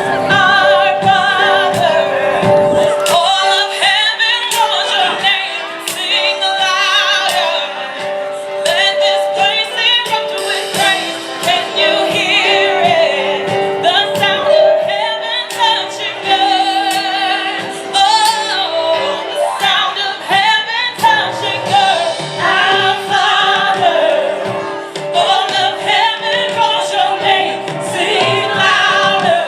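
Live gospel music: women singing with vibrato over sustained piano chords and a drum kit.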